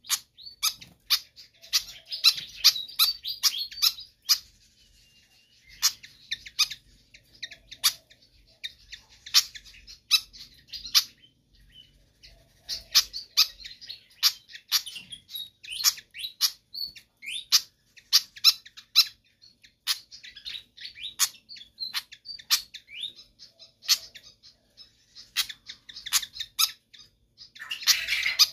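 Sikatan kipas (fantail flycatcher) singing and calling persistently: rapid, sharp, high-pitched chirps and short scratchy phrases in quick runs, broken by a couple of brief pauses.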